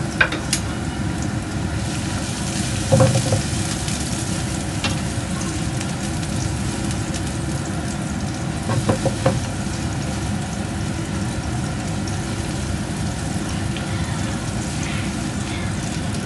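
Chopped garlic, ginger and onion sizzling steadily in oil in a frying pan, with a few light knocks of a utensil against the pan.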